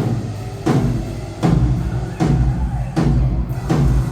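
A rack tom on a drum kit struck six times at an even pace, about three-quarters of a second apart, each hit ringing on low: the drummer is giving the tom a line check.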